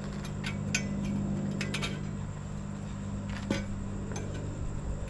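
Metal hand tools and exhaust hardware clinking and tapping together in a few sharp clicks, the loudest about three and a half seconds in, over a steady low hum.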